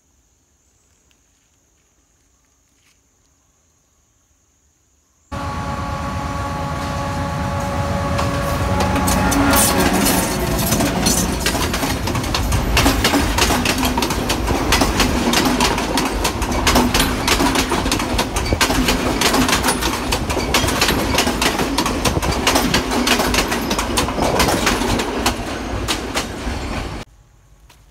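A train running past close over the rail: the wheels clatter on the track with many sharp clicks, with a few steady tones in the first seconds of the pass. It starts suddenly about five seconds in, after near quiet, and cuts off suddenly about a second before the end.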